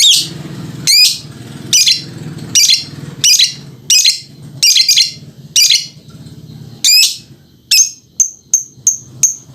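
A lovebird calling in its 'ngekek' song: a string of loud, shrill calls, about one a second, that quicken into shorter chirps near the end.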